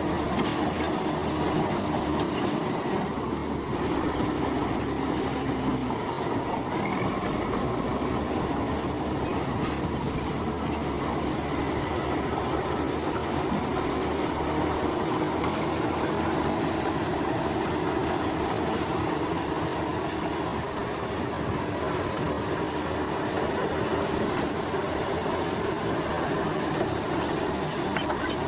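Komatsu crawler bulldozer working, its engine running steadily under a continuous metallic clatter and squeal from the steel tracks.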